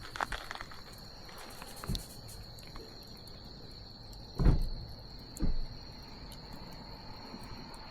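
Wood bonfire crackling with a few sharp pops, the loudest about halfway through and another about a second later, over a steady high-pitched trill of crickets.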